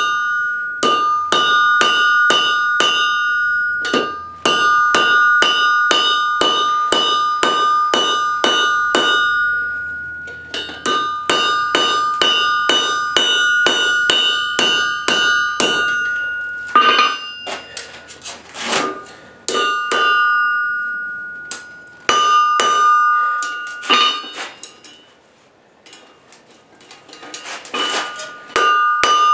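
Blacksmith's hammer striking hot steel on an anvil in runs of about three blows a second, the anvil ringing with a steady high tone under each run. The runs break off for short pauses, with a quieter stretch about 25 seconds in before the hammering resumes.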